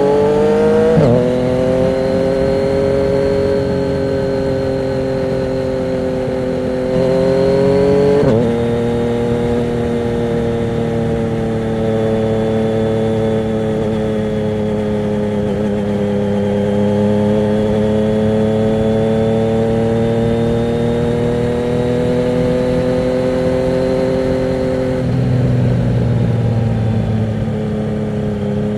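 Yamaha MT-09's three-cylinder engine through a Termignoni exhaust with the dB killer removed, running loud under way. Its pitch drops sharply at two gear changes, about a second in and around eight seconds. It then holds a steady cruise with gentle rises and falls, and changes again near the end.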